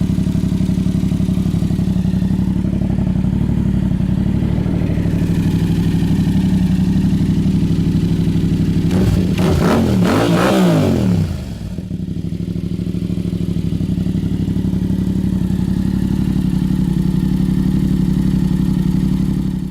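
Yamaha MT-07 parallel-twin engine idling through an aftermarket exhaust with its baffle removed. About nine seconds in it is revved once, the pitch rising and then falling back to idle about two seconds later.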